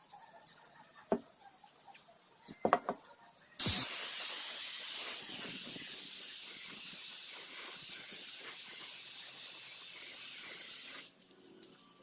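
A few light clicks, then a steady pressurised spray hiss that starts abruptly about three and a half seconds in, runs for about seven seconds, and cuts off suddenly.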